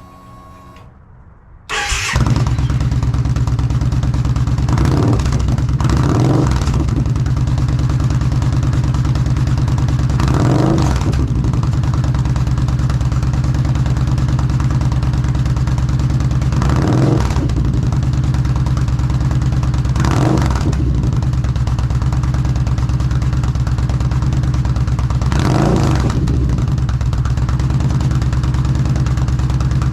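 2013 Yamaha V-Star V-twin motorcycle engine breathing through a Delkevic aftermarket muffler: it starts up about two seconds in and settles into a steady idle. A handful of brief surges in level come every few seconds.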